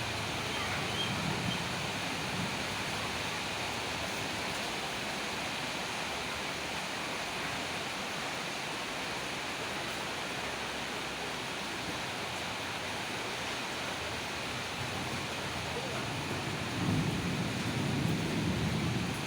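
Steady rain falling, with a low roll of thunder near the end.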